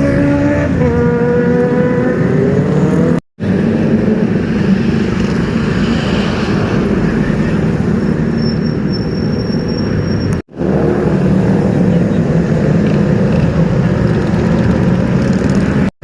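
Superbike engines running in short clips joined by abrupt cuts, about three and ten seconds in. Near the start one engine's pitch falls as it comes off the revs; after that the engine sound is rougher and steadier.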